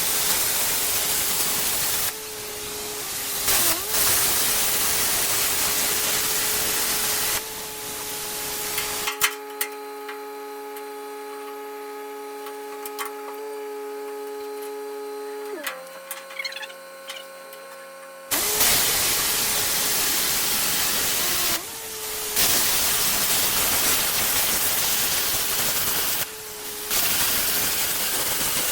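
Plasma cutter cutting 3/16-inch steel plate: a loud, steady air-and-arc hiss with a faint tone under it, stopping and restarting several times. In a quieter stretch near the middle only a steady hum is heard while the torch is not cutting.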